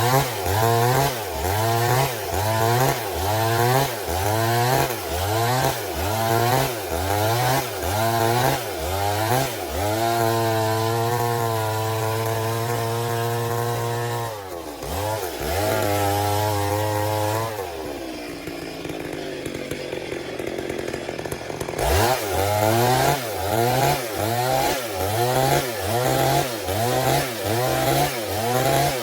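Stihl MS 382 two-stroke chainsaw milling a log lengthwise. Its speed rises and falls about one and a half times a second, then holds high and steady for several seconds. It drops back to idle about two-thirds of the way through, then picks up again with the same quick rise and fall.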